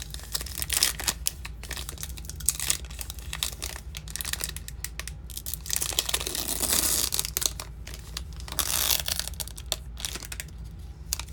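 Close-miked handling of trading cards and their packaging: crinkling and tearing with many small clicks and scrapes, and two longer crinkling swells about six and nine seconds in.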